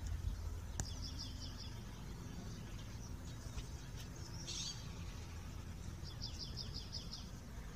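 Outdoor ambience with a small bird singing: two short runs of quick, high repeated chirps, about a second in and again near the end, over a steady low rumble.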